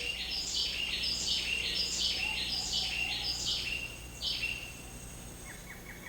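Rain forest wildlife ambience: high, descending calls repeating two or three times a second, which fade about four and a half seconds in, then a fast, high ticking trill.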